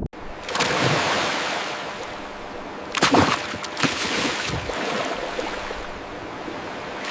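Water rushing and splashing as a steady hiss, with surges about a second in and a stronger splash around three seconds in.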